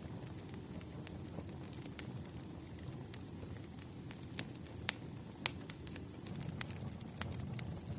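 Wood fire crackling: a steady low rumble with scattered sharp pops and snaps, two louder pops near the middle.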